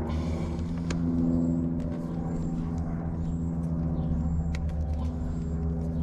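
Steady low machine hum with a few sharp clicks and short high chirps.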